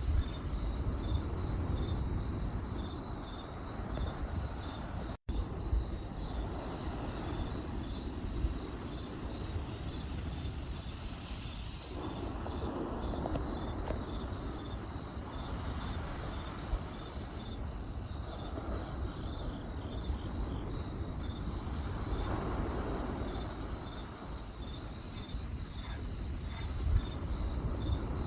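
Crickets chirping steadily in a fast even pulse over a campfire's low rumble, with a few sharp crackling pops. The whole sound cuts out for an instant about five seconds in.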